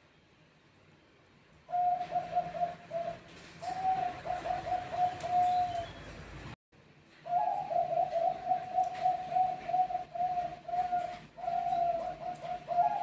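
Bangkok-line zebra doves (perkutut) cooing in fast runs of short, even coos, starting about two seconds in. The calling cuts off abruptly about halfway through and resumes a moment later.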